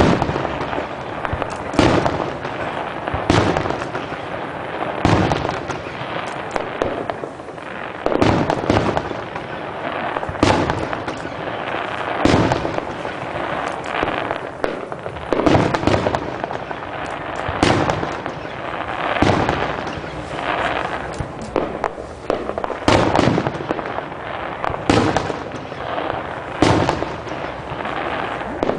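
Aerial fireworks shells bursting in a steady barrage. A loud bang comes every one and a half to two seconds, with continuous crackling between the bangs.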